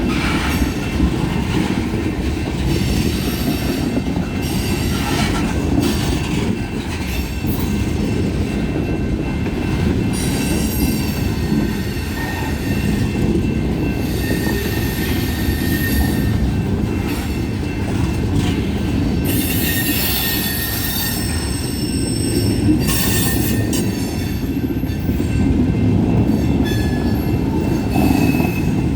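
Freight cars of a garbage train rolling past with a steady heavy rumble. High-pitched wheel squeal comes and goes several times.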